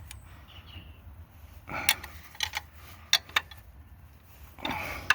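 Hand tools and metal fittings being handled on a diesel engine: scattered sharp clicks and clinks, with two short scraping noises, one about two seconds in and one near the end, over a steady low hum.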